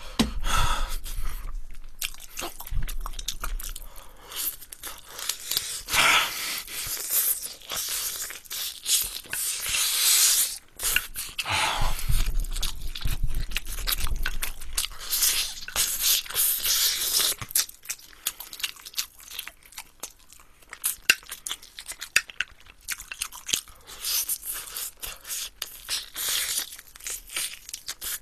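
Close-miked crunching and chewing of crispy sauced fried chicken, dense and steady, becoming sparser and quieter about two-thirds of the way through.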